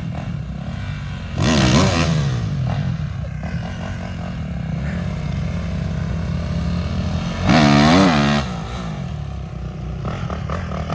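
450cc dirt bike engines running, with two loud revs: one about a second and a half in, and one about eight seconds in that climbs and falls in pitch.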